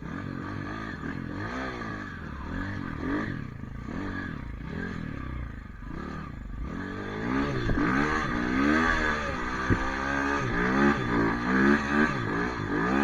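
Pit bike engine revving up and down over and over as it is ridden, getting louder about halfway through.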